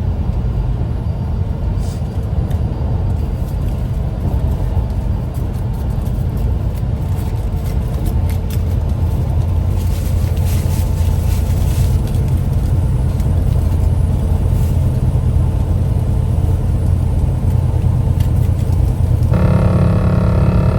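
Steady low rumble of a car's engine and running noise heard from inside the cabin. Near the end a steady tone with several pitches comes in and holds.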